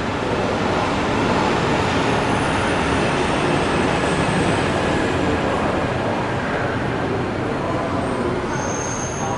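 Steady loud rumble of a subway train running on elevated track. Faint high-pitched squeals come in near the end.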